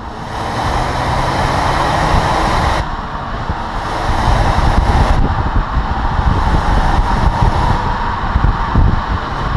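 Audi A3 Cabriolet with the 1.4 TFSI four-cylinder turbo engine driving, engine and road noise together with a rushing hiss. The hiss drops away abruptly about three seconds in and again about five seconds in.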